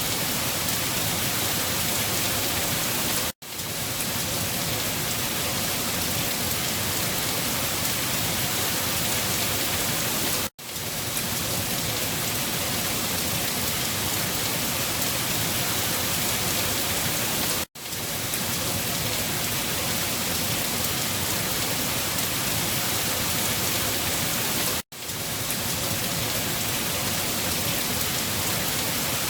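Steady, dense rain. The sound cuts out for an instant four times, about every seven seconds, and swells straight back in each time.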